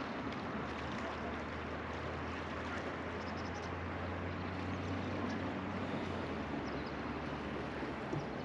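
River water flowing and rippling steadily around a floating raft, with a low steady hum underneath for most of the time and a few faint high chirps in the middle.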